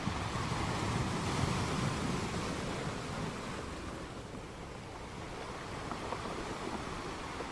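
Sea surf: a wave washes in and swells over the first couple of seconds, then draws back and eases off before the next one builds.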